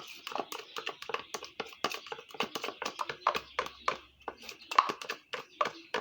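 A spoon knocking and scraping against a mixing bowl in quick, uneven strokes, about four or five a second, as soap batter is stirred by hand.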